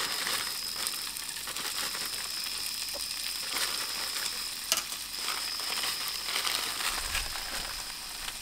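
Frozen stir-fry vegetables sizzling in a hot frying pan of garlic, onion and chili paste, a steady frying hiss with a few sharp pops.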